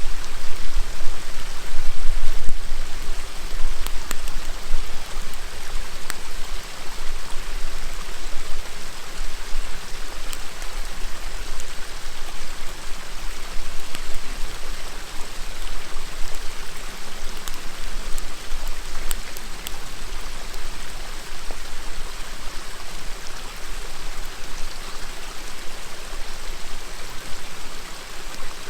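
River water flowing and burbling steadily, with scattered sharp crackles and pops from a wood bonfire. A low rumble is strongest in the first few seconds.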